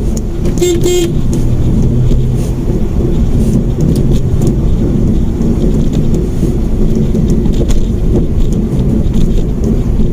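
Road and engine noise inside a moving Mitsubishi Mirage hatchback, a steady low rumble. A car horn gives a short double toot about a second in.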